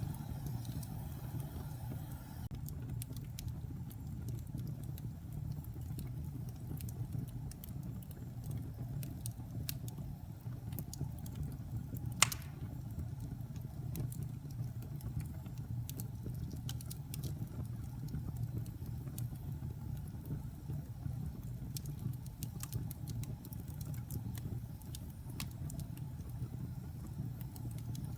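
Wood fire burning in a fireplace: a steady low rumble of flames with scattered small crackles, and one sharp, loud pop about twelve seconds in.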